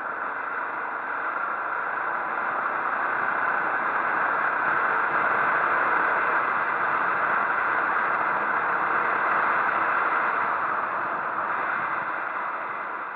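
Steady rushing noise with no clear engine note. It starts abruptly, swells slightly and eases a little near the end.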